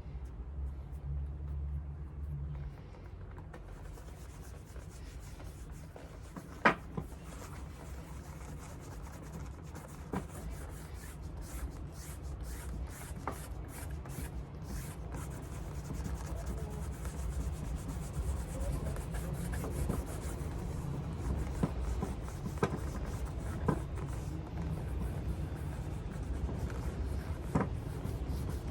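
Leather shoe being cleaned by hand: quick, repeated rubbing strokes over the leather, with a few sharp knocks along the way.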